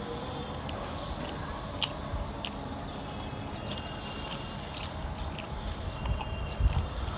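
Close-miked eating sounds: a person chewing food with wet, squishy mouth noises and scattered sharp clicks, and a low thump near the end.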